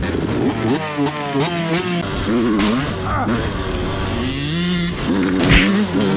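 Yamaha YZ125 two-stroke dirt bike engine being revved hard, its pitch rising and dropping again and again as the throttle is worked through the gears. Two sharp knocks, about halfway and near the end.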